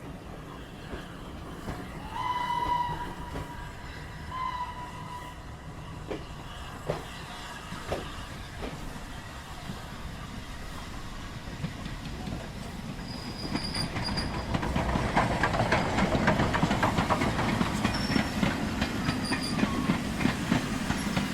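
A train: a whistle blows about two seconds in and briefly again a couple of seconds later, a few knocks follow, and from about halfway a louder train rumble with rapid rhythmic clatter builds up and keeps going.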